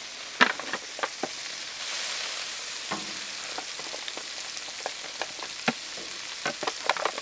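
Chicken wings sizzling in butter and olive oil on a Blackstone flat-top griddle as the flats are laid down one by one, the sizzle swelling briefly about two seconds in. Metal tongs click now and then.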